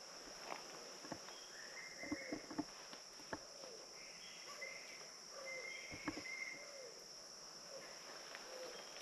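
Steady high-pitched chorus of crickets and other insects, with footsteps on a bush track and scattered short bird calls.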